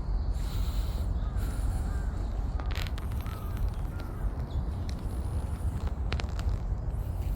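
Crows cawing outdoors, with harsh calls about three seconds in and again about six seconds in, over a steady low rumble.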